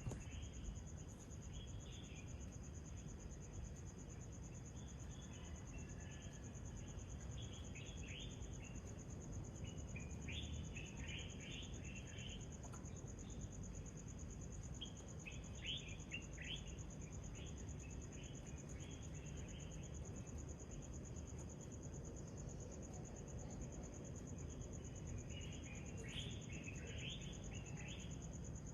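Steady high-pitched trilling of night insects, with short clusters of bird chirps about eight, eleven, sixteen and twenty-seven seconds in, as the birds begin to wake before dawn.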